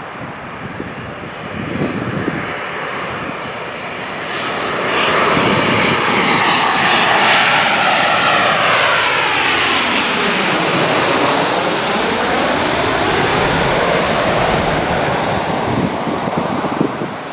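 An airliner passing close overhead. Its engine noise swells about five seconds in and stays loud for around ten seconds, with a phasing whoosh that sweeps down in pitch and back up as it goes over, then eases off near the end.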